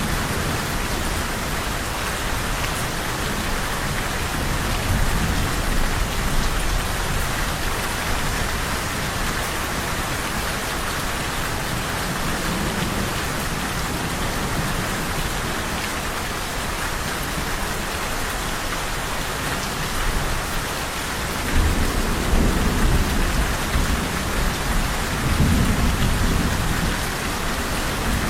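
Steady rain pouring down, with low rumbles of thunder that come and go, loudest twice in the last third.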